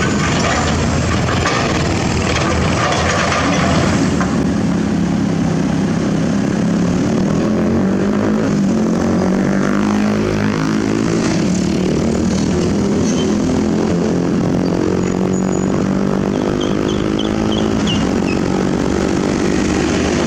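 Excavator's diesel engine running steadily under load, its pitch dipping and rising again about ten seconds in. A few short high-pitched squeaks come near the end.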